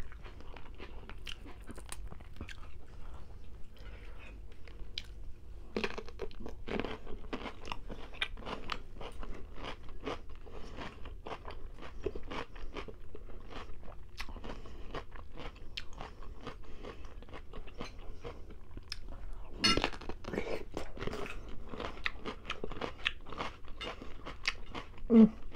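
Close-miked crunching and chewing of raw cucumber: bites and wet chewing, with a denser run of crunching about twenty seconds in and a brief louder sound near the end.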